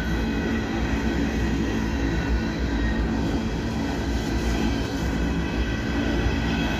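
Freight train cars rolling past: a steady, loud rumble of wheels on rail, with a faint steady high ringing above it.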